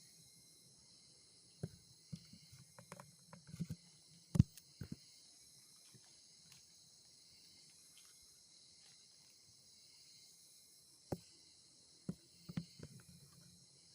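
Steady high-pitched chorus of insects such as crickets, with scattered close knocks and rustles, two clusters of them, the loudest about four seconds in.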